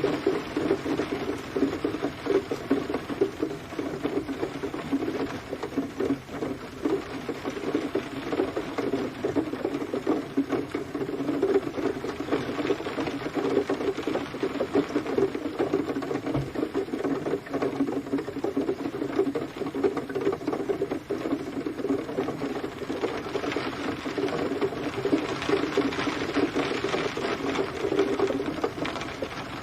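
Steady rain pattering, a dense, even rush of drops that keeps up throughout.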